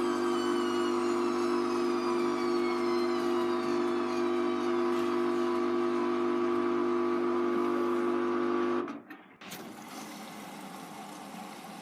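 Hoover washing machine mid-cycle: a loud steady electrical hum, like a drain pump running, under a higher whine that falls slowly in pitch as the drum motor slows. About nine seconds in, the hum cuts off abruptly, leaving a quieter steady rush of water.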